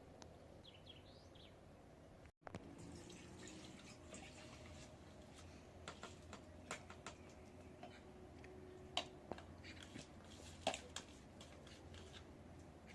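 Faint, scattered light clicks and taps, with a few sharper ones in the second half. Before a cut about two seconds in there are faint bird chirps.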